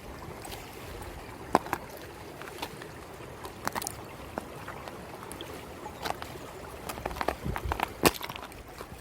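Footsteps on a rocky mountain trail, irregular crunches and knocks, over the steady running of a mountain stream.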